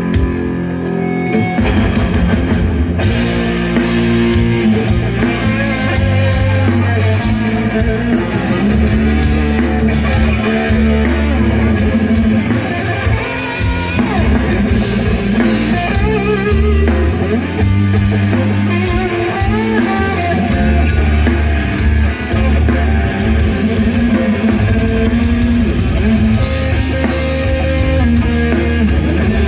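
Live rock band playing an instrumental passage with electric guitars, bass guitar and drum kit. The sound is thinner at first and the full band fills in about three seconds in.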